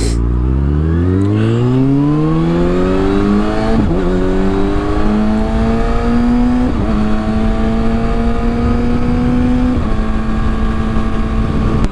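2022 Kawasaki ZX-6R's inline-four engine with a Yoshimura exhaust pulling up through the gears. The engine note rises, drops at upshifts about four, seven and ten seconds in, then holds steady. Wind noise runs under it on the microphone.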